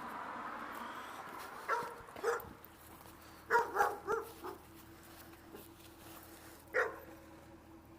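A dog barking about six short times: two barks, then a quick run of three, and one more near the end.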